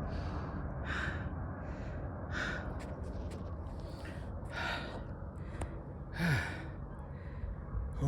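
A man breathing hard and sighing, out of breath from climbing a steep slope: heavy breaths about every second and a half, one about six seconds in sliding down in pitch like a groan.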